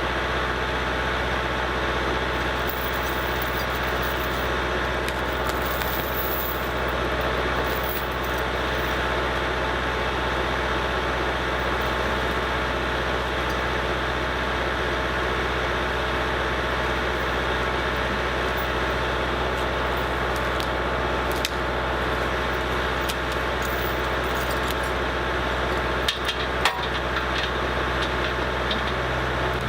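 Kubota L47 tractor's diesel engine running steadily, with a few sharp knocks about three-quarters of the way in.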